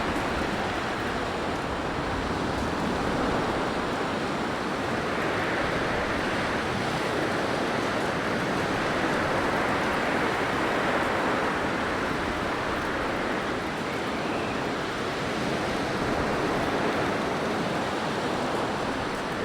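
Steady blizzard wind: a dense, even rushing noise that swells and eases only slightly.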